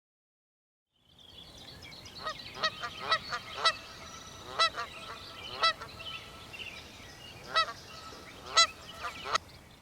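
Geese honking: about ten short, separate honks at uneven intervals over a steady background hiss, starting about a second in.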